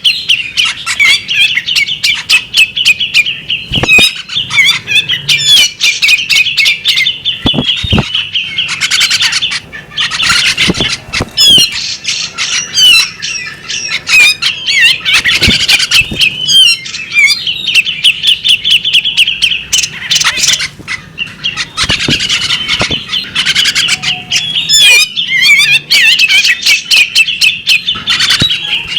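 A female magpie robin calling continuously in rapid chattering chirps, with harsh squawky notes mixed in and only brief pauses.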